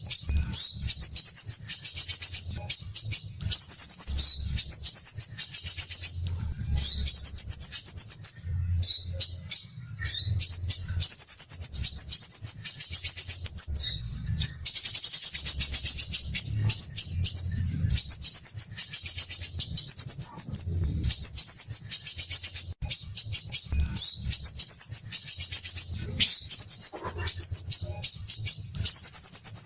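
Crimson sunbird (sepah raja) singing: fast, dense, rough high-pitched rattling trills ('besetan kasar rapat'), repeated phrase after phrase with only brief pauses between them.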